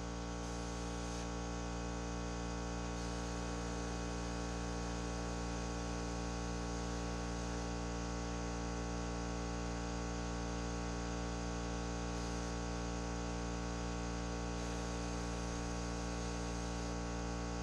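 A machine running at a constant speed: a steady hum with many even overtones and a hiss above it, unchanging throughout.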